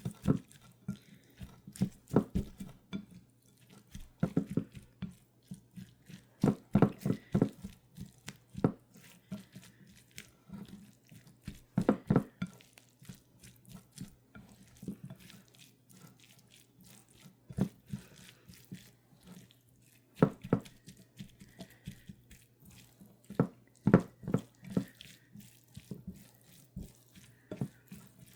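Dishes and utensils clinking and knocking in irregular clusters, kitchen handling sounds, over a steady low hum.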